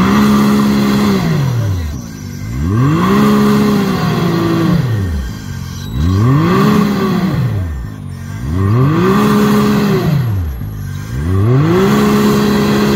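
Off-road vehicle's engine revved hard and let off again, over and over in a steady rhythm: five rises and falls in pitch, about one every two and a half seconds.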